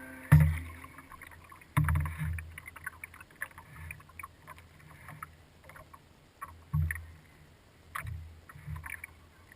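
Kayak paddling picked up by a camera mounted on the kayak: paddle splashes and drips, with several low, heavy thumps through the boat, the first about a third of a second in and others around two, seven and eight seconds in.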